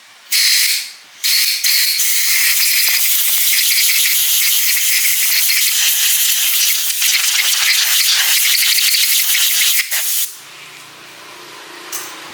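Loud hiss of a pressurised jet. A short burst comes first, then after a brief pause a continuous blast of about nine seconds, which cuts off suddenly.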